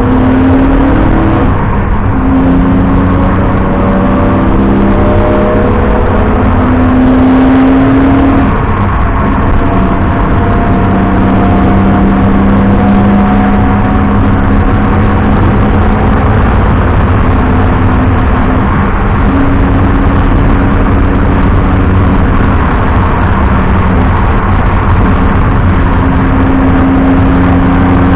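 BMW 330i E90's straight-six engine pulling hard, heard from inside the car: its pitch climbs in steps through several gears over the first eight seconds or so, then holds fairly steady, over constant road and tyre noise.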